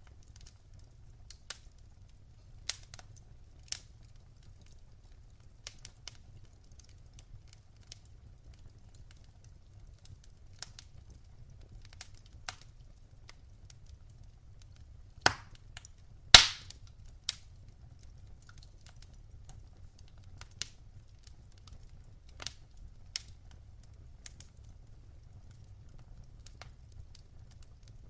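Wood fire crackling in a fireplace: irregular sharp crackles and pops over a faint low rumble of the flames, with two louder pops a little past the middle, the second the loudest.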